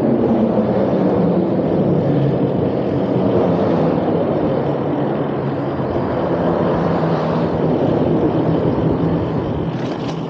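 Vehicle driving across a drawbridge's lift span: steady tyre and engine noise with a steady low hum.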